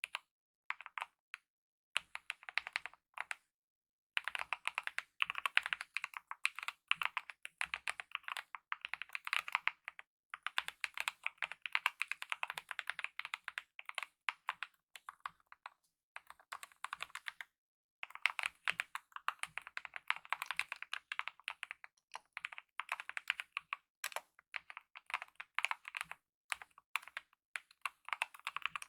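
Typing on a Kemove mechanical keyboard with lubed optical red linear switches and DSA-profile keycaps: runs of fast keystrokes broken by a few short pauses.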